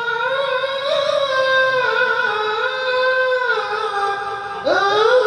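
A single voice singing sholawat in long, drawn-out, ornamented notes. A new phrase enters near the end with a rising slide.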